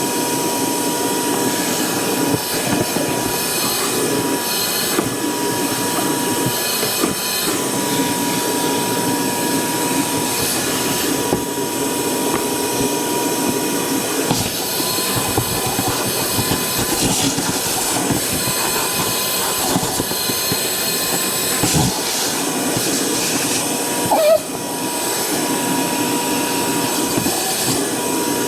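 A motor-driven cleaning machine running steadily, with a rushing noise and a constant high whine that dips briefly with a jolt near the end.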